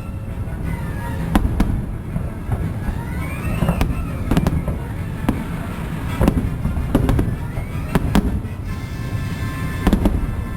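Aerial fireworks bursting, a run of sharp bangs about one to two a second, over the show's music.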